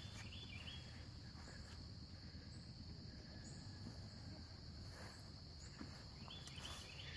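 Faint steady chorus of crickets, a continuous high-pitched trill, over a low background rumble.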